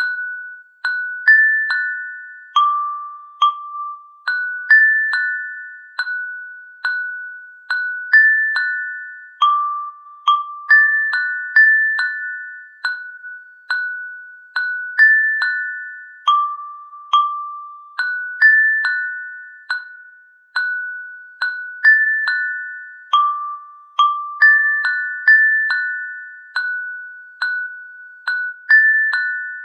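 A slow, simple melody of bell-like struck notes, like a glockenspiel or music box, moving among three or four pitches. Each note starts sharply and rings away, at a steady pace of one to two notes a second.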